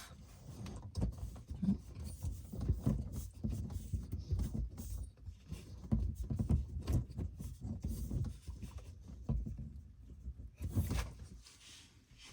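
Handling noise from someone reaching into the cabinet under a kitchen sink: irregular rustling and low bumps, with a sharper knock about eleven seconds in.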